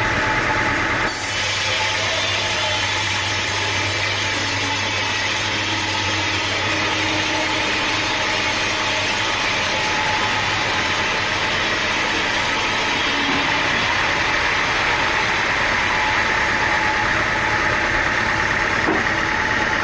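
An engine running steadily at idle-like speed. A high hiss joins it about a second in and stops abruptly about twelve seconds later.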